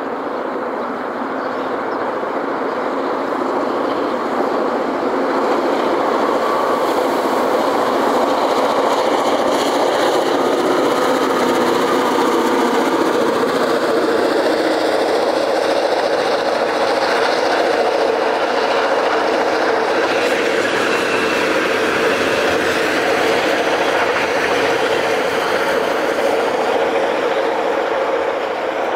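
A freight train of box cars and hoppers rolling past at speed: a steady rushing rumble of steel wheels on the rails, growing louder over the first several seconds and then holding.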